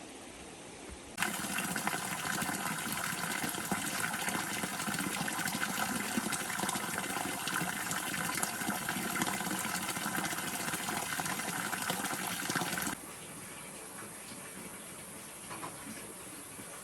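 Water running steadily and splashing into a container. It starts suddenly about a second in and stops suddenly about twelve seconds later, leaving a quieter wash of water underneath.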